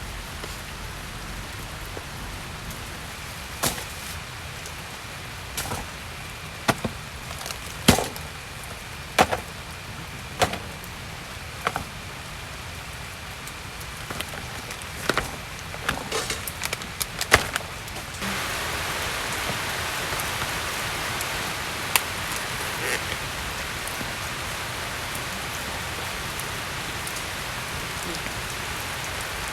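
Steady rain falling, with a string of sharp knocks and clicks over the first half. A little past the middle the rain becomes suddenly louder and hissier.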